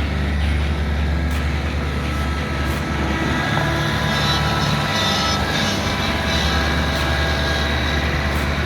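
Kubota LX3310 compact tractor's diesel engine running steadily, with a faint high whine in the middle.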